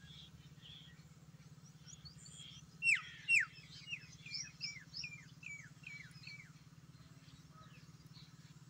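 A small bird chirping: a string of short, downward-sliding calls, two louder ones about three seconds in, then about four a second for a few seconds. A steady low hum runs underneath.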